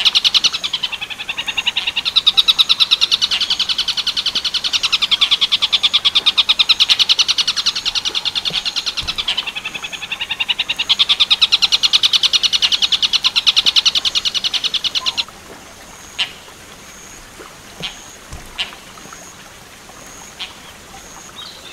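Tengkek buto kingfisher call from a bird-song training recording: a loud, rapid, even trill of many quick notes for about fifteen seconds, dipping slightly in pitch partway through, then cutting off abruptly. A quiet pause follows, with a few faint short chirps.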